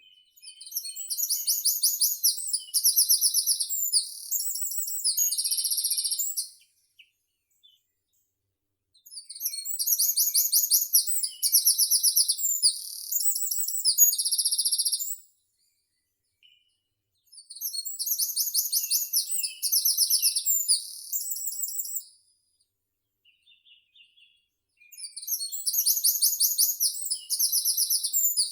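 Bird song in four bouts, each about six seconds long with short silent pauses between: very high-pitched, a fast run of repeated notes that ends in a buzz.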